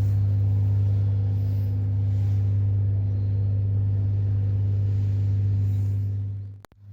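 A steady low hum with fainter overtones above it, holding level and then cutting off abruptly near the end.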